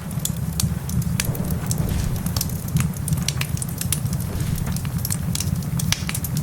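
Wood fire crackling in a fireplace, with frequent sharp pops over a steady low rumble.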